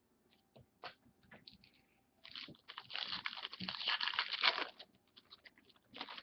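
Foil trading-card pack wrapper crinkling for about two and a half seconds as it is handled and opened, with small taps and clicks of cards being handled before and after.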